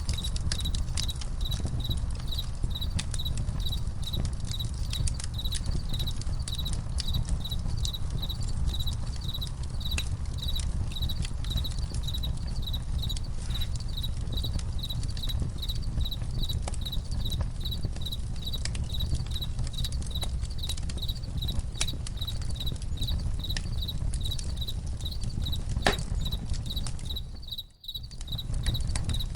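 Campfire crackling, with scattered sharp pops over a low rumble, and crickets chirping in a steady, even rhythm. Everything drops out for a moment near the end.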